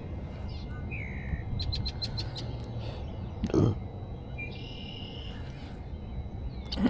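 Birds chirping, with short high calls and a quick run of ticks, over a low steady rumble. One dull thump about halfway through is the loudest sound.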